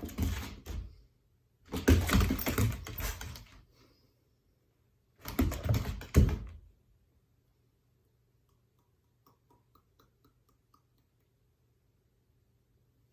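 Three bursts of close, clattery handling noise, dense rapid clicks and rustle, the last ending about seven seconds in; a few faint ticks follow.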